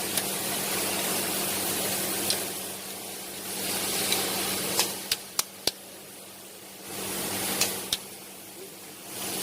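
Workshop sounds during engine assembly: a handful of sharp metallic clicks and taps from hand tools and engine parts, several in quick succession about halfway through and two more near the end, over a steady hum and hiss.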